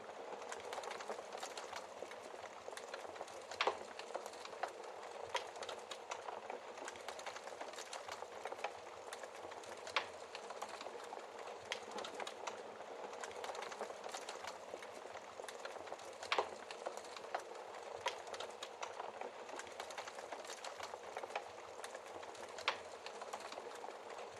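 Wood fire crackling: a steady hiss with frequent small pops and a handful of louder, sharper snaps spread through.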